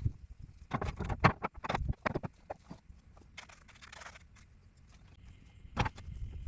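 A quick run of sharp knocks and clatter about a second in, a short hiss or scrape around the middle, and one more sharp knock near the end.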